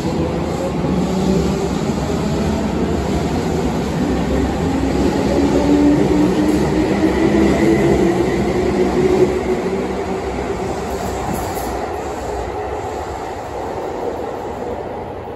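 Keihan Electric Railway commuter train pulling out of a station: its traction motors whine, rising in pitch as it accelerates, over a steady rumble of wheels on track. The sound is loudest about halfway through, then fades as the train leaves.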